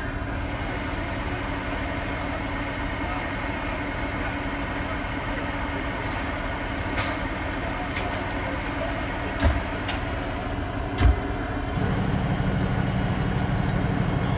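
Vehicle engine running steadily with a low hum. There are two short thumps about a second and a half apart past the middle, and the hum steps up louder near the end.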